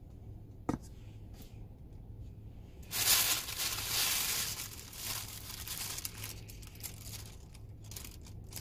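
Crinkling and rustling of something being handled, loudest for about three seconds from about three seconds in, over a low steady hum, with a single click near the start.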